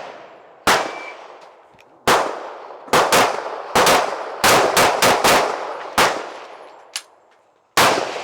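Handgun shots on a firing range: about a dozen sharp reports at uneven spacing, several in quick succession, each trailing off in a long echo.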